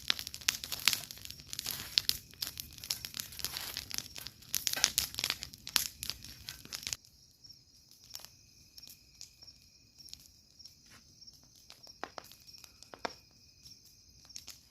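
Dry, charred corn husks rustling and crackling as an ear roasted in its husk is handled and pulled from the embers. About seven seconds in this stops abruptly. Faint, steady night insects chirping and a few light clicks remain.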